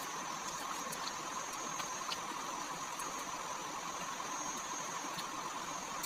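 Steady background hiss with two constant high-pitched hums running through it and a few faint scattered ticks.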